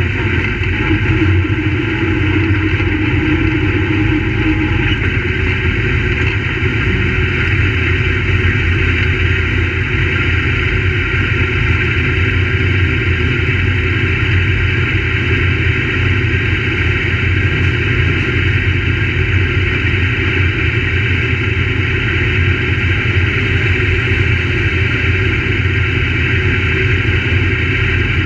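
Crate late model dirt-track race cars' V8 engines running, a loud, steady engine noise with no clear rises or falls in pitch.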